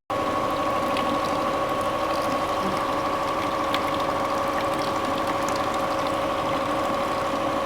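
Renault Clio 1.0 16v engine idling steadily during a cooling-system flush, with rinse water running through the system and out, a constant hum and whine over a wash of water noise.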